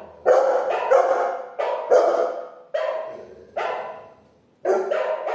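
A large dog's deep barks from a recorded barking sound effect played through a small speaker, about eight barks at an uneven pace, each dying away before the next.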